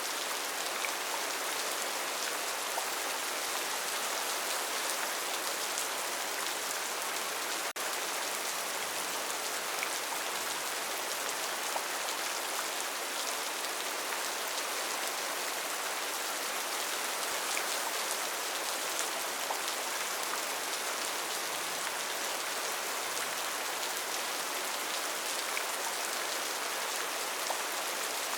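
Steady rainforest rain: a dense, even hiss of falling drops with no thunder, broken by a momentary dropout about eight seconds in.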